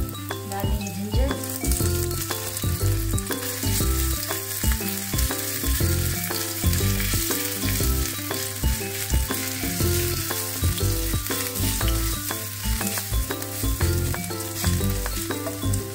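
Chopped garlic and ginger sizzling in hot oil in a nonstick frying pan. The sizzle grows louder about a second and a half in. Background music with a steady beat plays throughout.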